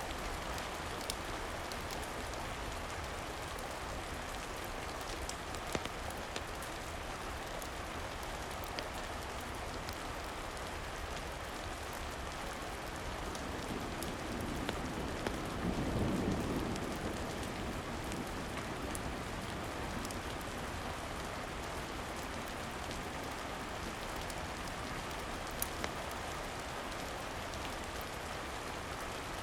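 Steady rain with scattered light ticks. About halfway through, a low rumble swells and fades over a few seconds.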